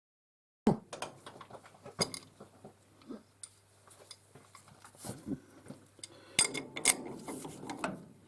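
Metal tools and parts being handled on a workbench: a scatter of sharp metallic clinks and knocks, two louder ones a half-second apart near the end, over a faint steady hum.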